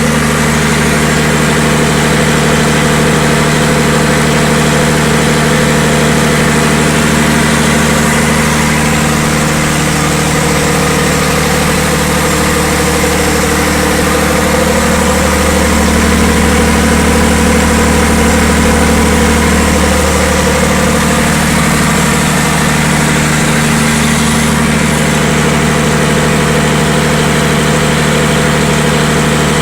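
Diesel generator engine running steadily at constant speed, with a slight swell in its low tone partway through.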